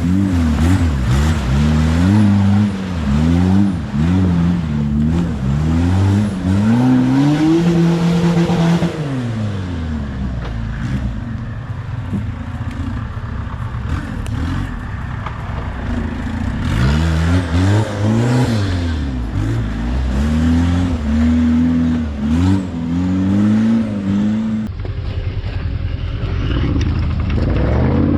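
Engine of an off-road 4x4 competition vehicle being revved hard in repeated rises and falls. The revs are held high for a moment about eight seconds in, ease off for a few seconds, then swing up and down again.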